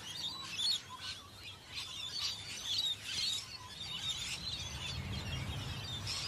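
Birds chirping and calling, many short high calls overlapping one another.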